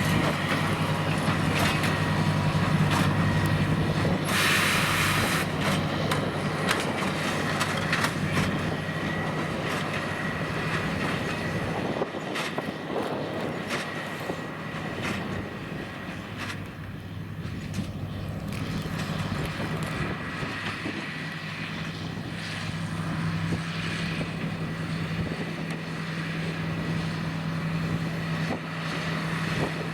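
John Deere 8330 tractor's six-cylinder diesel running steadily under load while a Krone BigPack square baler works behind it: a low engine drone with a thin steady whine and constant mechanical clicking and clatter from the baler. The sound grows somewhat quieter around the middle, and the engine note rises a little in pitch in the last third.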